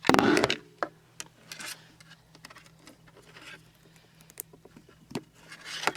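Plastic clatter and small clicks from handling an animatronic Halloween prop while switching it on for a first test. The clatter is loudest at the very start, scattered taps follow over a faint steady low hum, and a brief rustle comes near the end.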